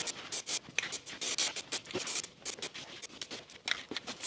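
High-build polyester primer being sprayed in many short, quick hissing bursts, at an irregular pace, laying down very light coats.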